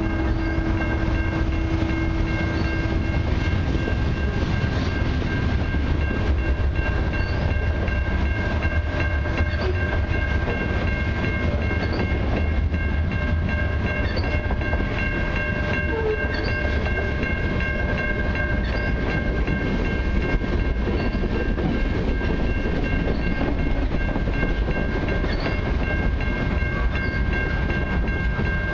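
Covered hopper cars of a long freight train rolling past at a level crossing: a steady rumble of wheels on rail, with some clatter and steady high-pitched tones running through it.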